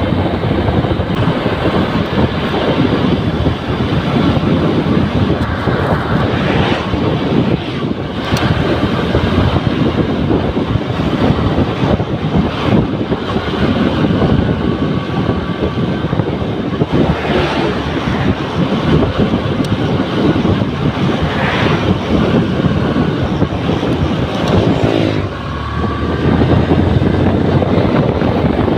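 Honda New Megapro single-cylinder motorcycle running on the move, mixed with heavy wind noise buffeting the microphone. About 25 s in, the level dips briefly and a wavering tone passes through.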